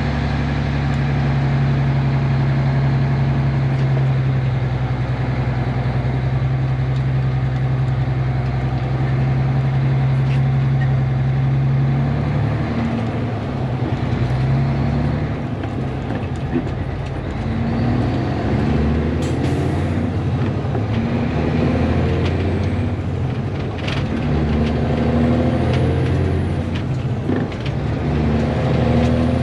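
Caterpillar diesel engine of a Peterbilt 362 cabover running through a single straight pipe with the muffler removed, heard from inside the cab while driving. The engine note holds steady for about twelve seconds, then its pitch steps up and down repeatedly with changes of speed and gear. The open pipe gives it a louder, barking exhaust note.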